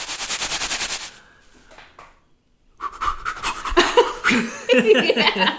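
A person imitating an object's sound with their mouth: a fast pulsing hiss lasting about a second, then after a pause a run of breathy voiced noises.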